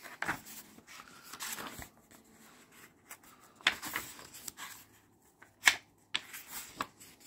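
Paper pages of a book being handled and turned: rustling with several short, sharp flicks, the loudest about four and six seconds in.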